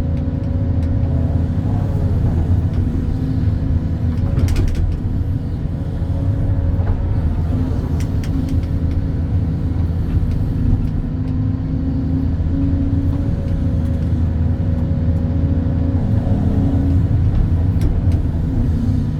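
Excavator diesel engine running steadily under hydraulic load while digging, its pitch shifting slightly with the work, with a couple of short knocks partway through.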